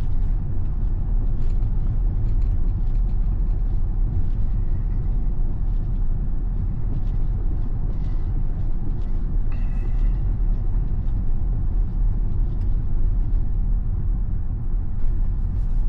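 Steady low rumble of tyre and road noise from a moving Tesla electric car.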